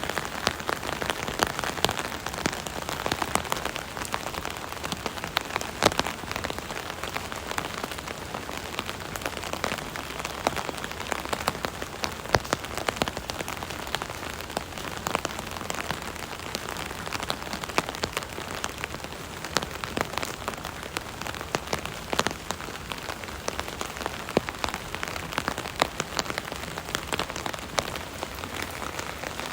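Rain pattering steadily on an umbrella overhead, a dense run of sharp individual drop ticks over a continuous hiss of rainfall.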